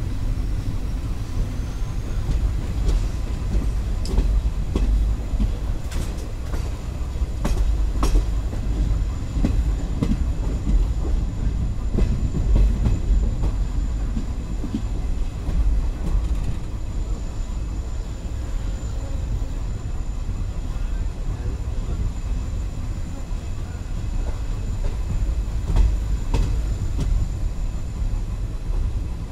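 Express passenger train running at speed, heard from inside a coach: a steady low rumble of wheels on rails with scattered sharp clicks, most of them several seconds in.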